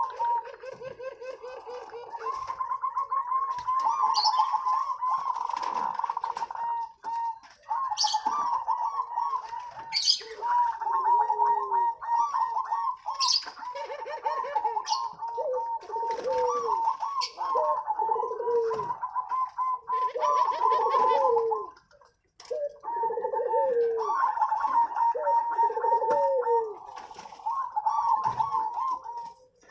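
Several zebra doves (perkutut) cooing and overlapping, with rapid stuttering coos repeated over and over and lower falling coo notes between them. The song pauses briefly about three quarters of the way through.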